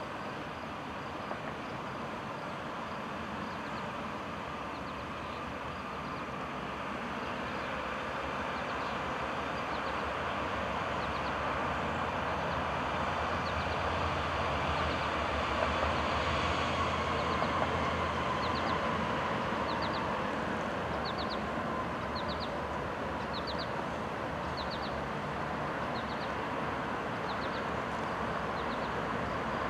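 Freight train rolling past with a steady rumble that builds toward the middle and then eases a little, with a tone sliding down in pitch as it passes. A small repeated high chirp sounds about once a second through the second half.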